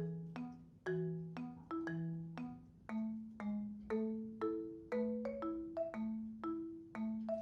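Background music: a light, bouncy tune played on mallet percussion such as a marimba, its struck notes ringing and fading at a steady easy tempo.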